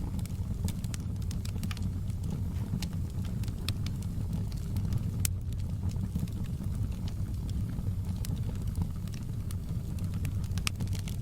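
Wood fire in a fireplace crackling: irregular sharp pops and snaps of burning logs over a steady low rumble of the flames, with one louder pop about five seconds in.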